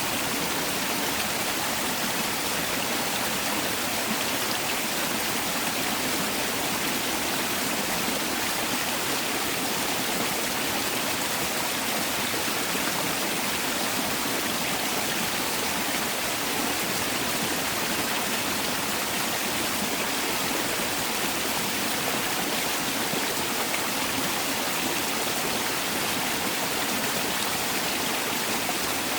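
Mountain valley stream rushing over rocks, a steady, even flow of water with no change.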